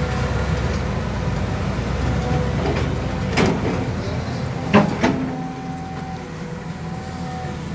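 Heavy dump truck's diesel engine running with a deep rumble that eases after about three seconds. Two loud metallic clanks come about three and a half and five seconds in.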